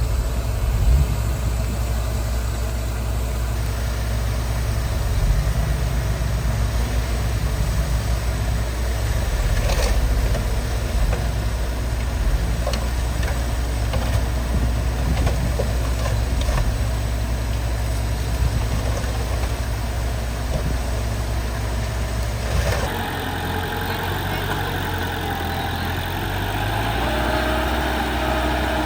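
Heavy earthmoving machinery's engine running steadily, with a few short knocks. About 23 seconds in the sound cuts abruptly to a different engine running.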